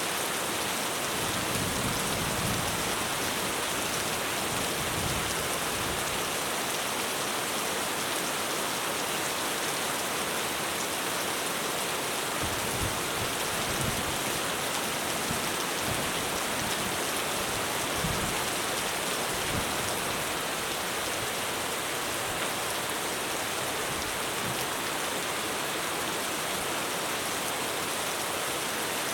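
Heavy rain falling steadily on a roof, with a few brief low thuds.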